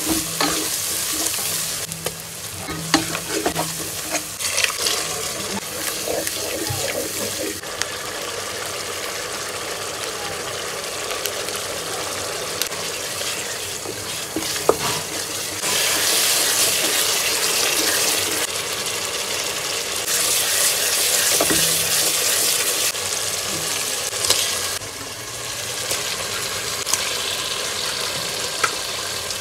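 Sliced onions and spices frying in hot oil in a wok, sizzling steadily, with a spatula scraping and clicking against the pan as they are stirred during the first few seconds. The sizzle grows louder for two stretches of a few seconds each in the second half.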